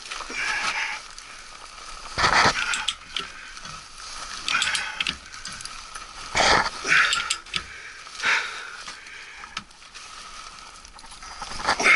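Hand tools working on metal: irregular clicking, scraping and clanking, with a few sharp knocks about two, six and a half and twelve seconds in.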